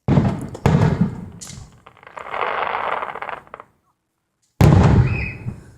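Aerial fireworks going off: two sharp bangs near the start, each fading away, then a couple of seconds of hissing noise, then another sharp bang near the end.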